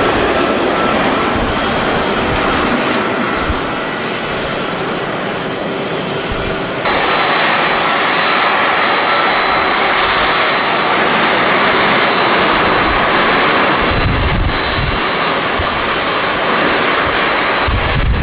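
Jet airliner engines running, a loud steady noise that jumps up suddenly about seven seconds in, when a high steady whine joins it. Low rumbles of strong wind hit the microphone a couple of times in the second half.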